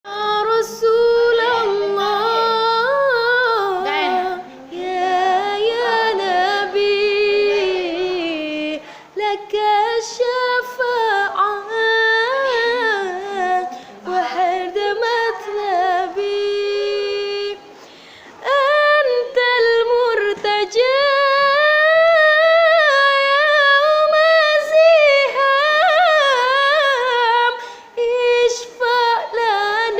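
A woman's solo voice singing an Arabic devotional song unaccompanied, long held phrases with many ornamented turns and short breaks for breath.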